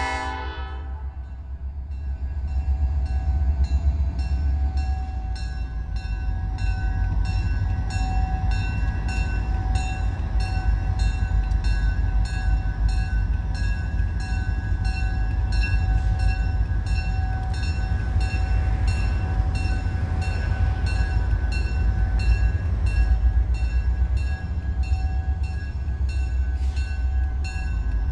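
Diesel freight locomotives approaching slowly with a heavy low engine rumble, the last of the horn dying away at the very start, while a bell rings steadily, about two strokes a second.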